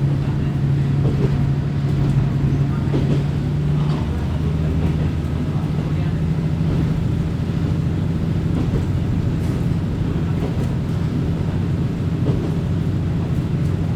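Diesel railcar under way, heard from inside the car: a steady low engine note over the rumble of the wheels on the track. About four seconds in, the engine note changes pitch and then holds steady.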